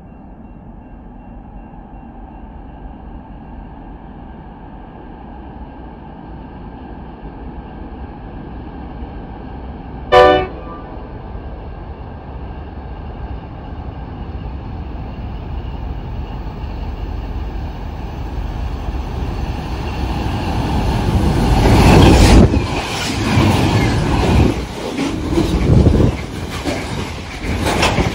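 Diesel train approaching, its rumble building steadily. About ten seconds in it gives one short horn blast. From about twenty seconds in it passes close and loud, its wheels clattering over the rails in repeated thumps.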